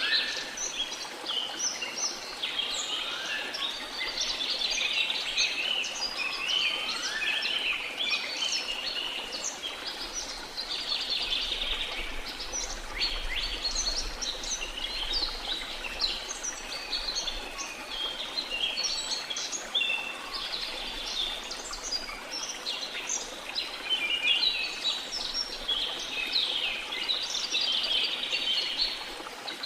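A chorus of small songbirds chirping and twittering without pause, with a few lower rising whistles in the first several seconds, over a steady hiss of the sea.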